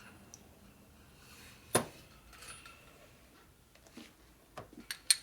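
Metal tools and fork parts being handled, clinking against each other: one sharp clink a little under two seconds in and a few lighter clicks near the end.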